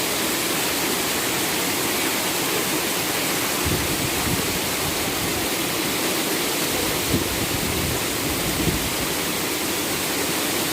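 Waterfall rushing steadily: a dense, even roar of falling water. A deeper low rumble comes in for a few seconds in the middle.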